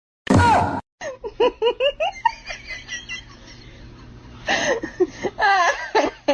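High-pitched laughter in quick repeated bursts, fading off in the middle and picking up again, after a short loud burst at the very start.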